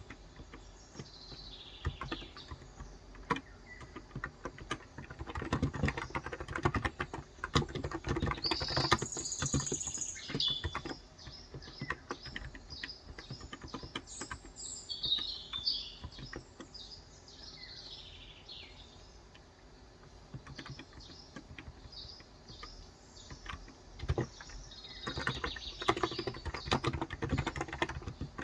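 Typing on a Cox Endeavour tenkeyless keyboard with 35 g electrostatic capacitive switches: a dense patter of key clicks in quick bursts, busiest near the middle and again near the end. Birds chirp in the background.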